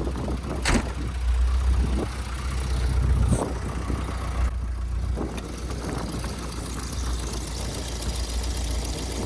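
VW Vanagon Westfalia camper van's engine idling steadily, heard from outside, with a couple of sharp knocks. It has just been started after running rough and wanting to die in the cold, and here the owner judges that it sounds okay.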